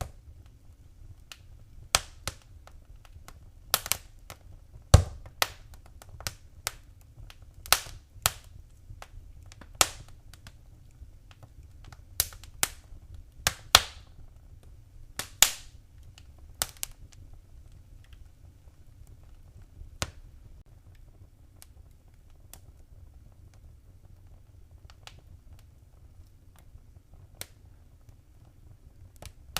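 Wood fire crackling: irregular sharp pops and snaps over a low rumble. The pops come often for the first half and thin out to only a few near the end.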